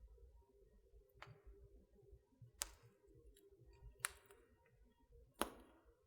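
Wood fire crackling in a fireplace: four sharp, loud pops about a second and a half apart, over faint small ticks and a low steady rumble.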